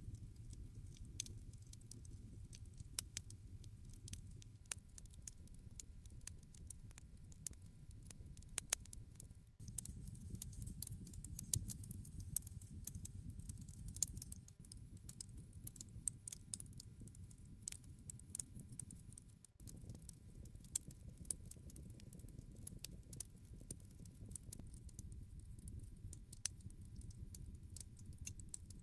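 Campfire crackling: irregular sharp pops and snaps over a low steady rumble of the burning wood, cutting out briefly twice.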